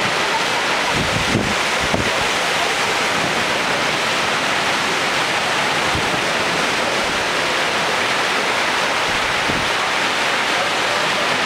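Sea surf washing onto a sandy beach, a steady rush of breaking waves. A few low thumps of wind buffeting the microphone come through now and then.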